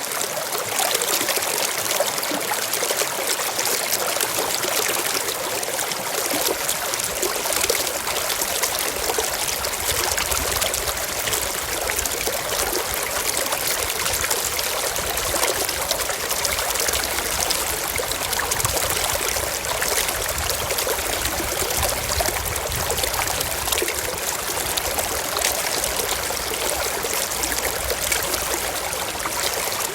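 A small stream running over rocks: steady trickling and splashing water. A faint low rumble joins in from several seconds in until near the end.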